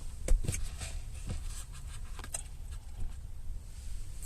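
A few scattered soft clicks and knocks of food and its packaging being handled during eating, the sharpest about a third of a second in.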